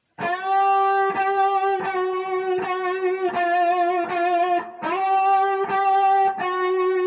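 Electric guitar picking a string bend over and over, about ten notes each roughly two-thirds of a second apart, moving between two close pitches as the bend is pushed up and let back, each note held with a slight vibrato.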